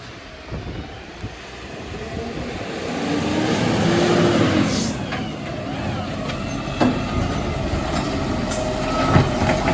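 Garbage truck running, its engine noise building to a peak about four seconds in, with a brief hiss just after. There are a couple of sharp knocks later on.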